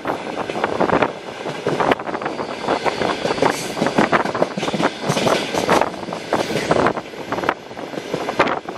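Passenger train running along the track, its wheels and carriage rattling and knocking unevenly over the rails through a steady rushing noise.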